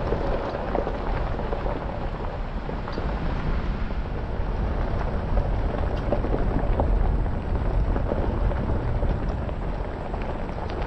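A 2024 Jeep Gladiator driving on a dirt backroad: steady low road and drivetrain noise, with scattered small ticks of gravel under the tyres.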